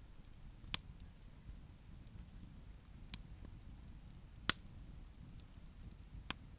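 Wood campfire crackling, with four sharp pops over a low, steady rumble; the loudest pop comes about two-thirds of the way through.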